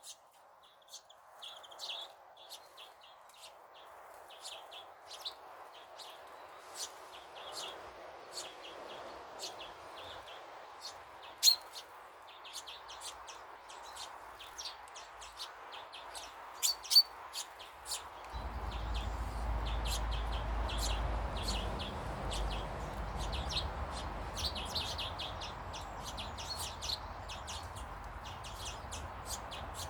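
Small garden birds chirping and twittering, many short sharp calls over a steady background hiss. About two-thirds of the way in, a low rumble sets in and stays.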